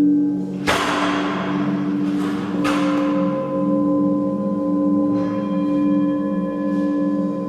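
Ringing metal percussion: low, steady humming tones with a slow pulse, two bright crashing strikes about two seconds apart that each die away slowly, and new higher ringing tones joining about five seconds in.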